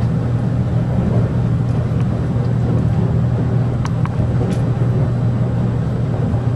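Steady running noise inside a JR Kyushu 787 series electric express train car at speed: a continuous low hum and rumble, with a couple of faint clicks about four seconds in.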